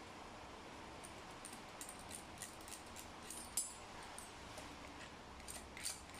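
Faint, scattered metallic clicks and taps of tools and small engine parts being handled while a scooter engine's cylinder head is taken apart, louder about three and a half seconds in and near the end, over a low steady hiss.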